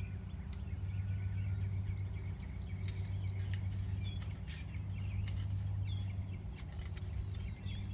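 Heavy-duty foil hanging on a string, crinkling and crackling irregularly as it twists in the wind, over birds chirping and a steady low hum.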